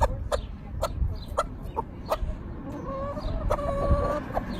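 Hens clucking, with a longer drawn-out call in the second half, among scattered sharp clicks.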